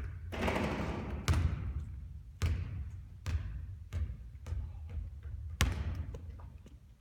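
Basketball bouncing on a hard court during three-point shooting practice, a series of irregularly spaced thuds that grow fainter near the end.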